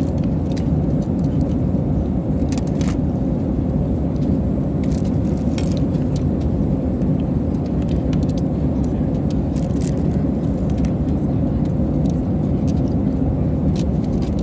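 Steady airliner cabin rumble in flight, with scattered light clicks and rattles of small items being handled.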